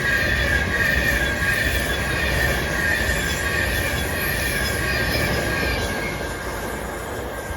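A train running along the platform with its wheels squealing in a high, slightly falling tone over a low rumble, fading off near the end.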